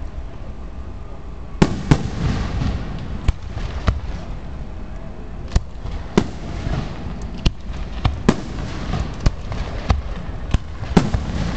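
Aerial fireworks shells launching and bursting in a rapid finale barrage: a dozen or so sharp bangs, starting about a second and a half in, over a steady low rumble.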